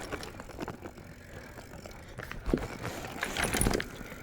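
Bicycle riding noise: a steady rushing haze with rattling knocks, loudest in two clusters about two and a half and three and a half seconds in.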